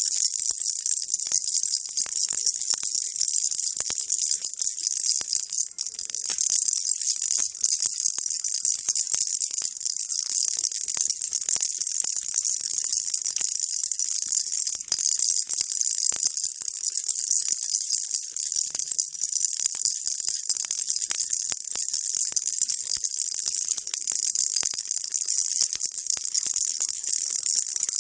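Baby rattle shaken without pause: a steady, dense, hissing rattle of many tiny clicks.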